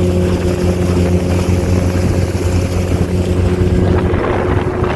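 Motorboat engine running steadily at speed, a constant low hum, under a rush of wind and water.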